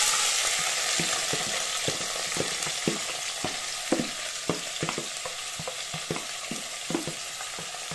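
Chopped seasoning vegetables sizzling loudly in hot oil in a pot, the hiss easing off gradually, while a spoon knocks against the pot about twice a second as they are stirred.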